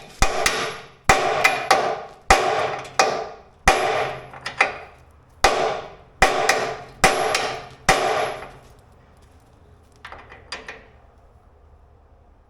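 Hammer striking a steel drift to drive a pivot pin out of a skid steer's quick-attach, about a dozen hard, ringing metal-on-metal blows at roughly one every three-quarters of a second. The blows stop about eight seconds in, followed by two lighter taps.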